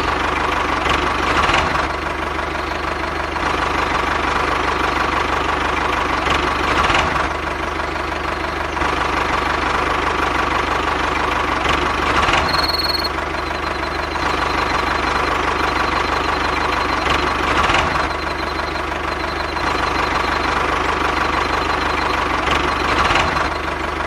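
An engine runs steadily with a knocking beat, swelling slightly in level every few seconds. The sound goes with a miniature toy tractor. A short high beep sounds about halfway through.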